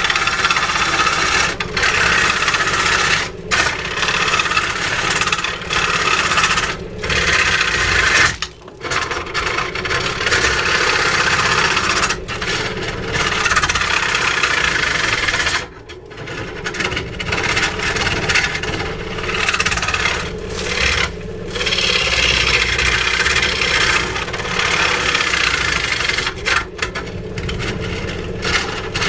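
A power tool working willow wood: a continuous scraping and rasping noise over a steady motor hum, broken by two short pauses, about a third and about halfway through.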